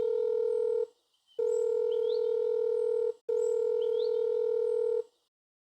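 A steady, electronic-sounding beep tone sounds in three long blasts of just under two seconds each, with short breaks between them.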